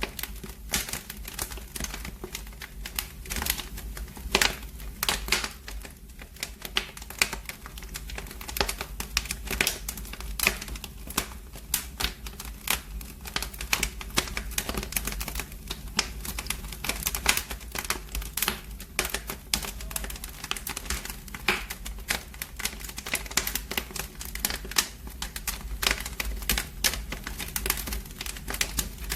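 Wood fire in a fireplace crackling: irregular sharp snaps and pops, several a second, over a steady low rumble.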